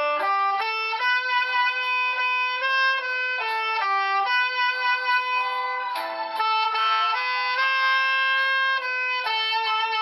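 Tenor saxophone playing a slow melody in held notes that step up and down, with a short break about six seconds in.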